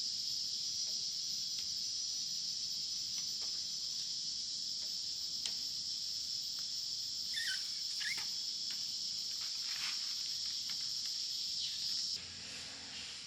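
Steady, high-pitched drone of jungle insects, with a couple of short chirps about halfway through; the drone cuts off suddenly near the end.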